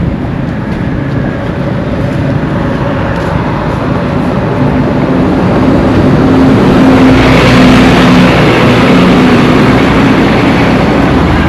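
Road traffic: motor vehicles running on the road, with one passing close by and loudest about two-thirds of the way through.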